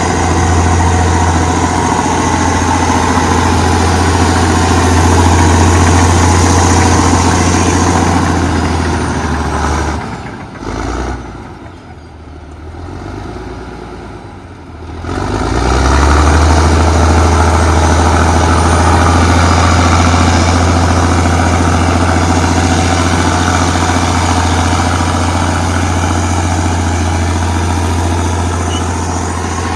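Allis-Chalmers HD-21 bulldozer's diesel engine running steadily with a strong low drone while pushing dirt. The engine sound drops away for about five seconds near the middle, then comes back at full strength.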